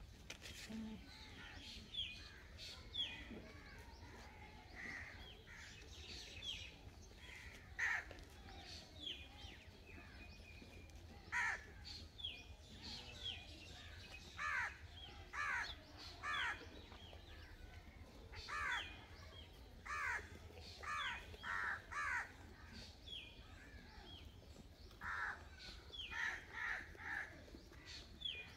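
Birds calling over and over, short sliding calls that come singly or in quick runs of two or three.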